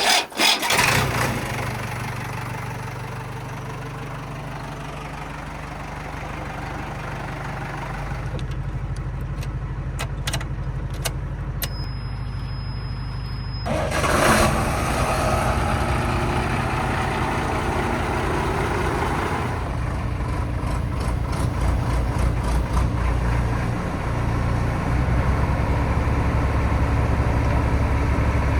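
Heavy diesel engine that comes in suddenly and then runs steadily, with a deep low hum. About halfway through it grows louder and harsher, as the engine is worked harder.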